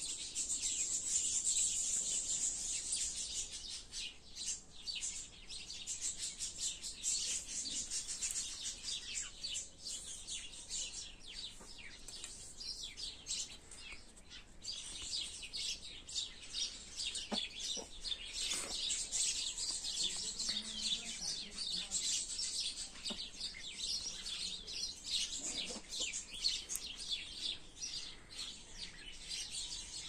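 Many small birds chirping rapidly and without pause, a dense high-pitched chatter that thins briefly about halfway through.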